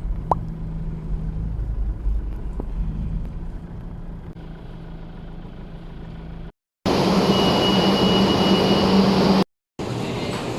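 A motor vehicle running, heard as low engine hum and road rumble, in short clips broken by two abrupt cuts to silence; after the first cut a louder, noisier stretch carries a steady high tone.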